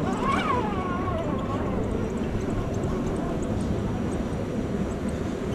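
Electric motor and gear whine of an RC rock crawler, rising and then falling in pitch as it is throttled just after the start, over a steady background rush.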